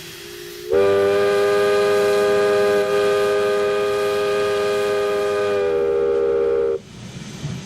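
Steam locomotive whistle sounding one long, steady blast of about six seconds, several tones together, that starts under a second in, sags slightly in pitch near the end and cuts off sharply.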